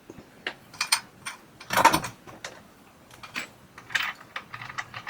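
Metal tools clinking on the dryer's front drum roller mount, with one louder clank about two seconds in, then a socket ratchet clicking in short runs as the roller's bolt is undone with a 9/16 socket.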